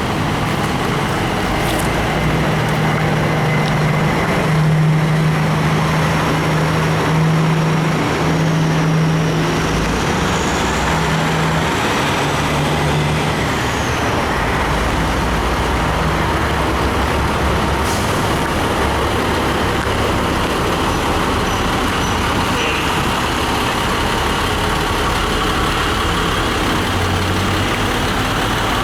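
Heavy truck engine running, a steady low drone over continuous road noise; the drone fades out about halfway through while the road noise carries on.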